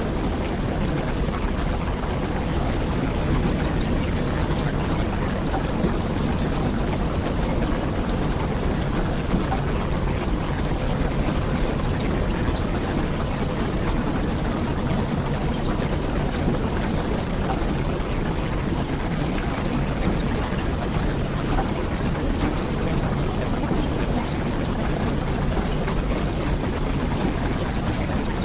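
Steady heavy rain, an even hiss with a low rumble underneath, unchanging throughout.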